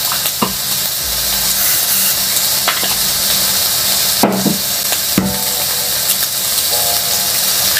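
Steady sizzle of food frying on a hot grill plate and in a small nonstick frying pan, with two sharp knocks about four and five seconds in.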